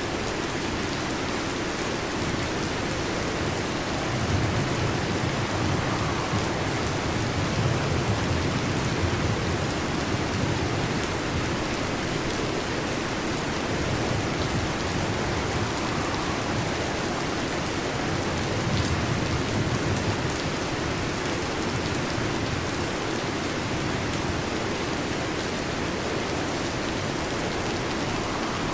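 Heavy rain falling steadily on a metal roof, with a low rumble of thunder swelling a few seconds in and again later.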